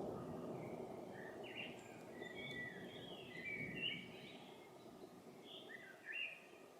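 Songbirds chirping and singing in short, quick warbled phrases, several calls overlapping, over a low background rumble that fades off during the clip.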